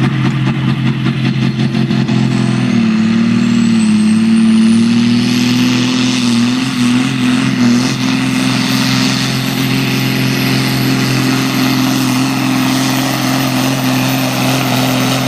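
Ursus tractor's diesel engine running hard under load in a tractor pull, holding a steady, loud note that lifts slightly about three seconds in. A thin high whine climbs over the first six seconds and then holds, the turbocharger spooling up.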